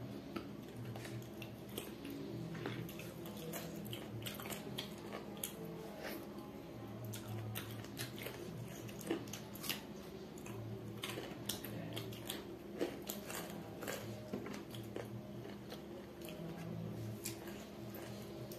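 Close-miked mouth sounds of a person eating rice and chicken curry with her hand: chewing, with frequent sharp wet clicks and smacks throughout.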